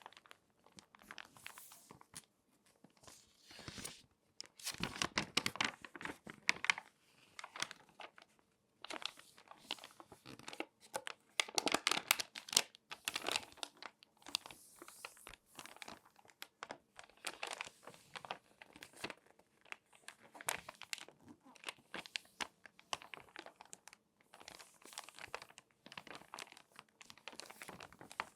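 Crinkly magazine pages being folded and creased by hand, crackling and rustling in irregular bursts, loudest around five and again around twelve seconds in.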